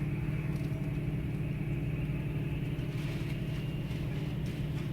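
Steady low mechanical drone with a faint high-pitched whine, unbroken throughout: airport background noise heard from the terminal.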